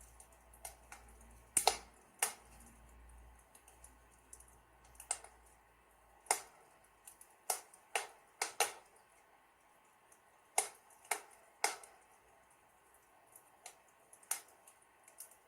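Wood fire in a fireplace crackling: irregular sharp pops and snaps at uneven intervals over a faint hiss.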